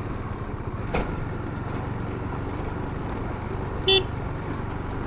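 Motorcycle riding along with steady engine and road rumble. There is a sharp click about a second in, and a short single horn toot about four seconds in.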